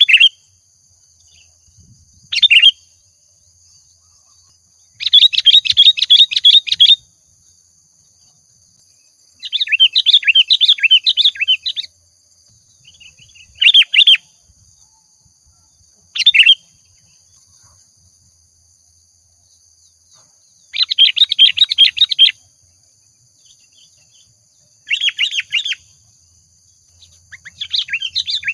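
Sooty-headed bulbul (kutilang) singing in separate bursts every few seconds: some short single calls, and some phrases of rapid repeated notes lasting about two seconds.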